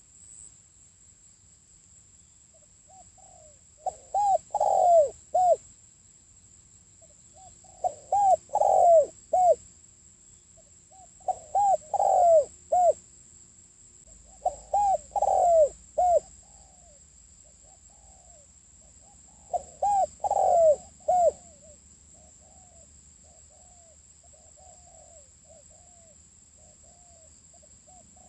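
Spotted dove cooing: five loud phrases of a few arched coos each, a few seconds apart, with softer coos between them and toward the end.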